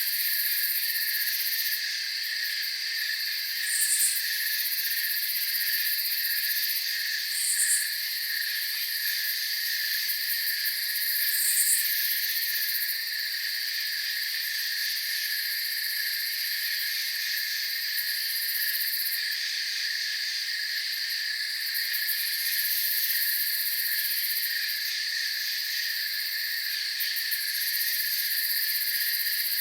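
Night chorus of crickets trilling steadily. In the first twelve seconds a brief, higher chirp stands out about every four seconds.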